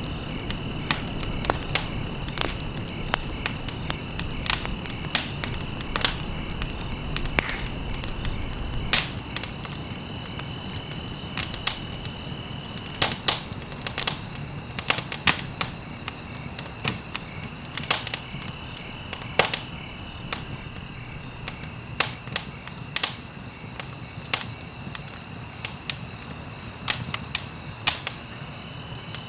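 Wood fire crackling and popping: sharp, irregular snaps over a low, steady rumble of burning logs, with a steady high-pitched trill running underneath.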